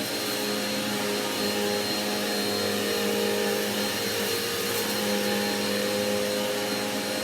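Dirt Devil Quickpower Cyclonic vacuum cleaner running steadily, a loud rushing noise with a high motor whine over a lower hum.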